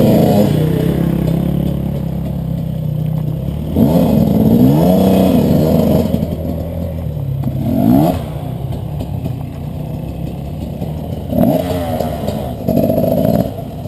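Enduro motorcycle engine revving in repeated surges, its pitch climbing and dropping several times, loudest about four to six seconds in and again near eight seconds.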